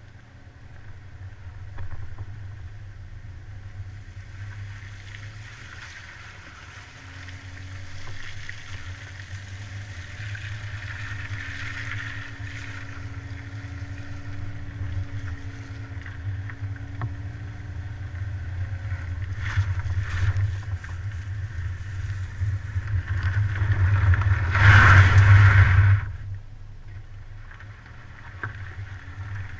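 Wind and road rumble on a car-mounted action camera while the car is driven, growing louder as it goes. About 25 seconds in, a loud rush swells for a second or two and then cuts off suddenly.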